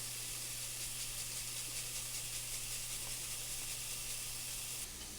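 Diced chicken sizzling in sun-dried tomato oil in a skillet, a steady hiss.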